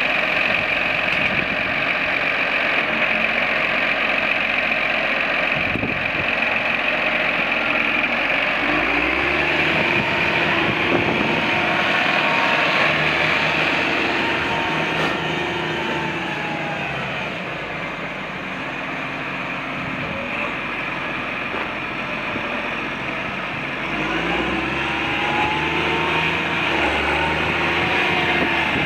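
Case IH Magnum 215 tractor's diesel engine running. Its note shifts about nine seconds in and again near the end, with some rising and falling pitch in between.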